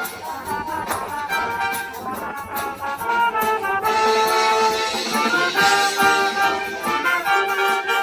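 Brass band playing a lively piece: brass instruments carry the melody over light percussion.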